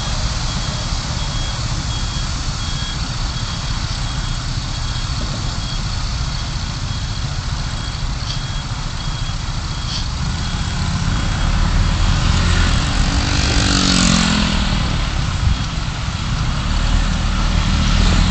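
City traffic heard through a car dashcam: steady engine and road noise, with a repeating high-pitched beep through the first half, like a truck's reversing alarm. About thirteen seconds in, a vehicle passes close by, its engine note getting louder and dropping in pitch as it goes.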